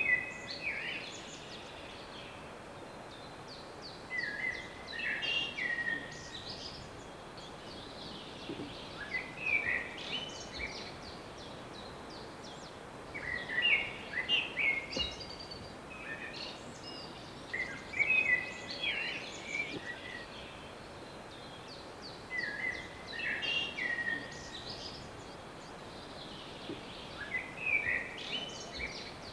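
A songbird singing short, bright song phrases, repeated about every four to five seconds over a faint steady background hiss.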